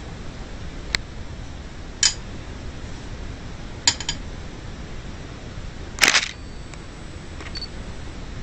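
Eating sounds while having ice cream: a few short, sharp clicks and smacks over a steady hiss, one about a second in, one at two seconds, a quick double near four seconds, and a longer, louder one about six seconds in.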